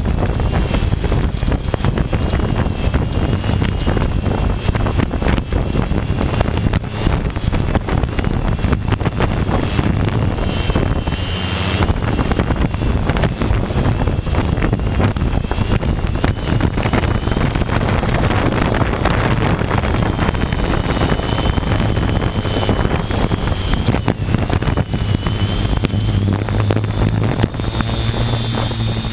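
Strong wind buffeting the microphone, with the thin, wavering whine of a multirotor drone's motors beneath it as it flies in high winds.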